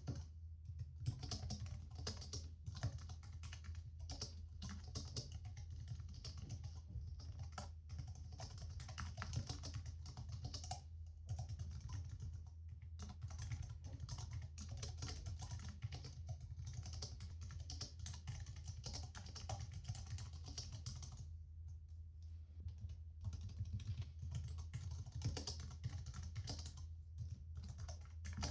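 Typing on a computer keyboard: rapid, continuous keystroke clicks with a few brief pauses, the longest about three-quarters of the way through. A steady low hum runs beneath.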